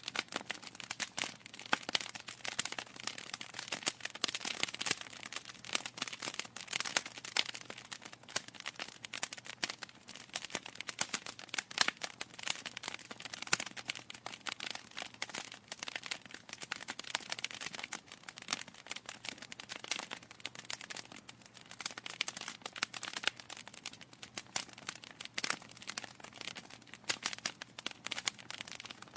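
Wood fire in a fireplace crackling: a dense, irregular run of small pops and snaps from burning logs, with no pause.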